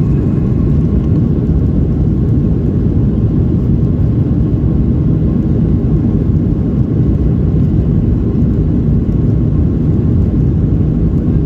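Steady rumble inside the cabin of a Boeing 737-800, from its CFM56-7B engines and the airflow past the fuselage.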